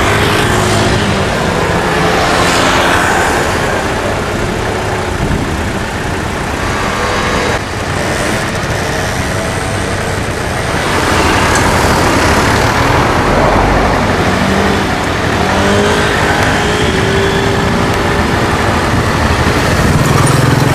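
Street noise with vehicle engines running.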